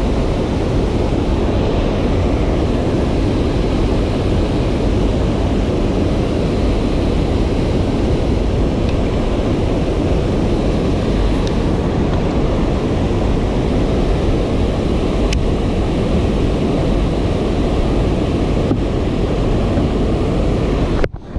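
Boat running under motor: a steady, loud rushing noise of engine, water and wind buffeting the microphone, which cuts off abruptly near the end.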